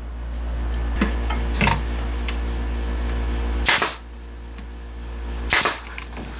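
Nail gun firing into wood: a couple of lighter clicks, then two loud sharp shots about two seconds apart in the second half, over a steady low hum.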